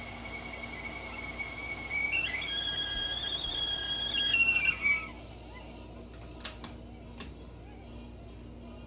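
Tea kettle whistling at the boil: a steady whistle jumps higher and louder about two seconds in, dips, then cuts off about five seconds in. A few sharp clicks follow.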